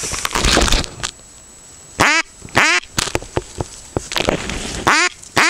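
Waterbirds calling: four short calls, one about two seconds in, another half a second later, and two close together near the end. A brief rush of noise fills the first second.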